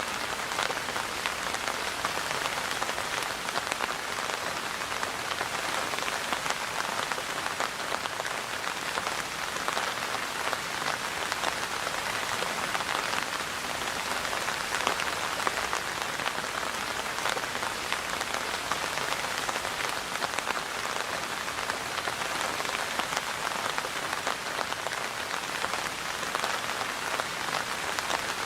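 Steady rain falling, a dense even patter of many drops on a surface.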